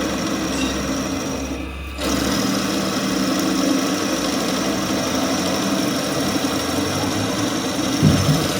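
Motor-driven workshop machine running steadily, with a constant hum and a thin high whine. The sound drops out briefly about two seconds in and then resumes, and there is a short knock near the end.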